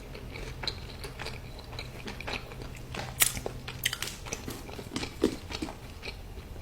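Close-miked chewing and biting into chicken tenders: scattered crunchy bites and wet mouth clicks, with the sharpest crunch about three seconds in.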